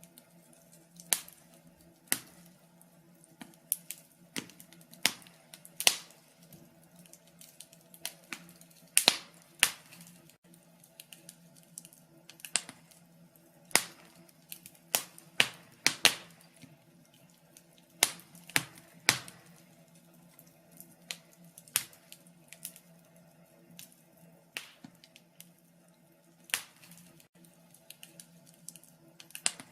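Wood fire in a fireplace crackling, with irregular sharp pops every second or two, some much louder than others, over a faint steady hum.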